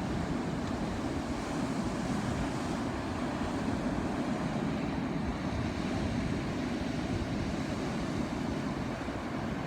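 Ocean surf: a steady, continuous rush of waves with a low rumble, no single crash standing out.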